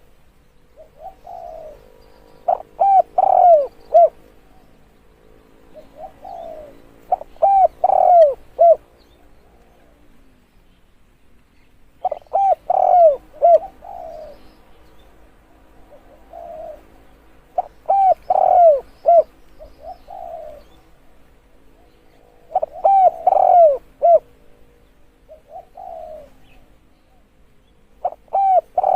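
Spotted dove cooing: a phrase made of a soft lead-in note and then a quick run of loud, rolling coos, repeated about every five seconds, used as a lure call to draw in wild doves.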